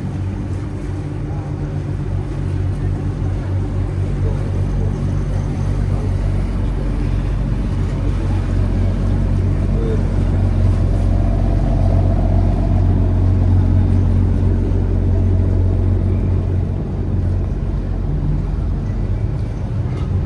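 Motorboat engine running with a steady low hum, growing louder toward the middle and easing off again.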